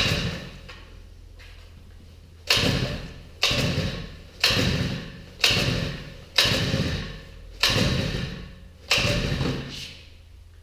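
Recoil pull-starter of a small four-stroke engine yanked over and over, about eight pulls, each a sudden rasp of cord and spinning engine that fades over a second. The engine never catches: it is hard to start.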